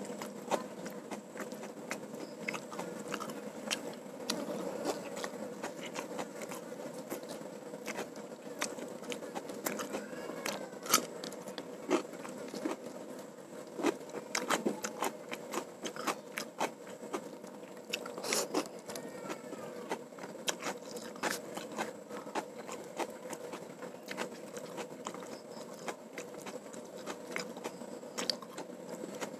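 A person chewing and crunching food close to a clip-on microphone, with irregular small clicks and mouth smacks while eating rice and crispy fried bits by hand.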